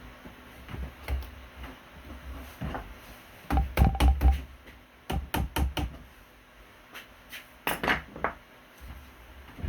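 Irregular knocks and taps in small clusters, the busiest bunch about halfway through and another near the end.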